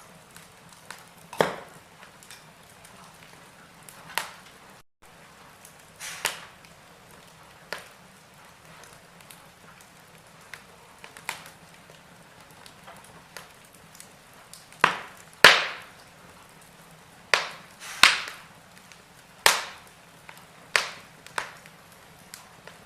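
Wood fire in a fireplace crackling, with sharp pops every second or two over a faint steady background. The pops come louder and closer together about two-thirds of the way through.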